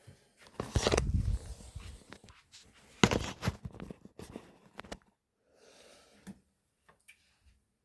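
Handling noises: a burst of rustling and clatter about a second in, a sharper one about three seconds in, then smaller knocks and rustles.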